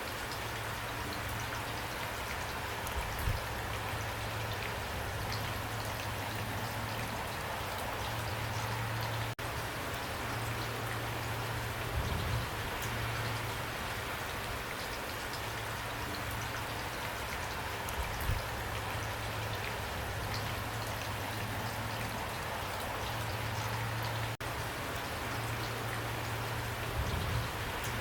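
Pouring rain, an even hiss of falling drops, over a low steady hum, with a few soft low thuds scattered through it.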